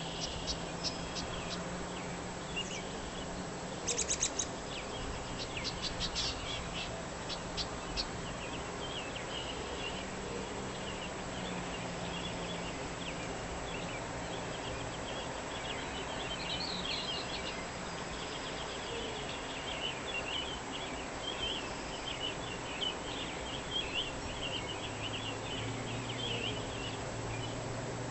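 Dawn chorus of several songbirds chirping and trilling, with quick rapid-fire notes about four and six seconds in, over a faint steady low hum.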